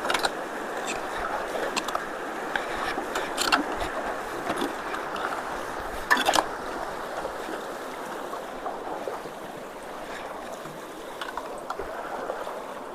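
Water rushing steadily at a culvert choked with sticks, with a few sharp knocks, the loudest about six seconds in.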